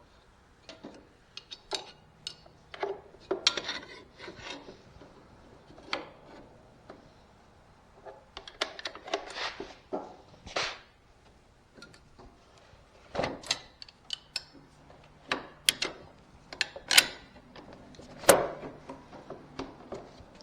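Hands fitting parts on a zero-turn mower's lap bar: irregular knocks, clicks and scraping of metal parts and tools, with the sharpest knocks a little before the end.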